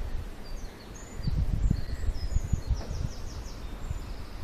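Low, uneven rumble of wind and handling on the microphone, with small birds chirping high and thin now and then and a quick run of repeated notes about three seconds in.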